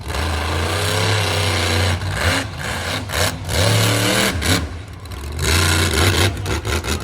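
Monster truck engine revving hard in repeated bursts, its pitch climbing and falling with each rev, with short drops in between.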